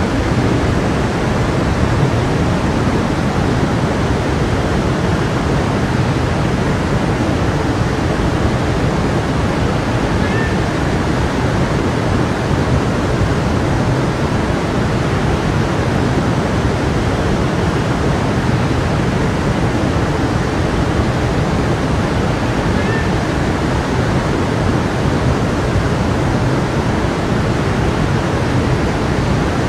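Steady rushing of a flowing stream, an even, unbroken water noise with no change in level.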